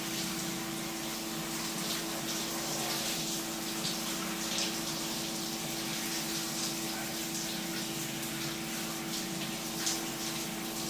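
Warm bath water running and splashing steadily while a small animal is washed, with a steady hum underneath.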